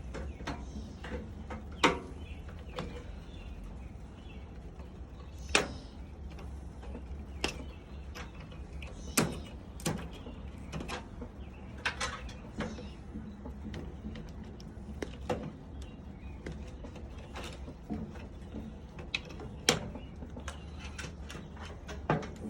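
Pair of snips cutting wires inside a microwave: a dozen or so sharp clicks and snaps at irregular intervals, over a steady low hum.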